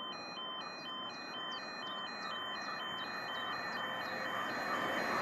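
Level crossing warning alarm sounding, a two-note electronic tone alternating high and low several times a second. Near the end, the rushing noise of an approaching train grows louder.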